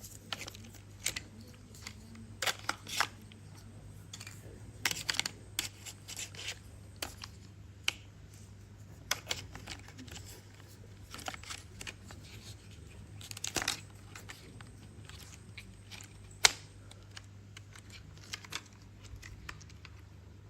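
Hands handling plastic toy pieces: irregular clicks, taps and short rustles over a steady low hum, with one sharper click near the end.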